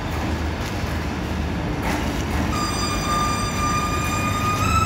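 Diesel passenger train running in slowly with a low rumble; about halfway through a steady high-pitched squeal begins and steps up a little in pitch near the end, its brakes squealing as it slows into the station.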